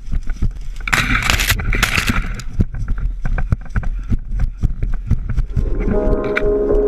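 Footsteps of a person running hard over the ground, with many irregular thuds and rattles of worn gear, close to the microphone. About six seconds in, a steady hum with several tones comes in over the footsteps.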